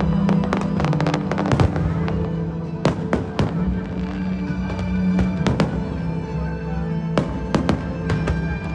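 Aerial fireworks bursting in a string of sharp bangs and crackles, thickest in the first two seconds, over music playing.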